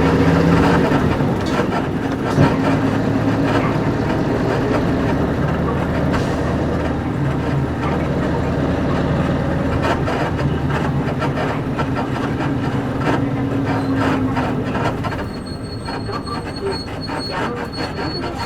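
Cabin sound of a Nissan Diesel KC-UA460LSN bus under way: its PG6 diesel engine pulls with a rising and falling note, over creaks and rattles from the leaf-spring suspension and body. About fifteen seconds in the engine note drops away, and a faint, high, intermittent beeping starts.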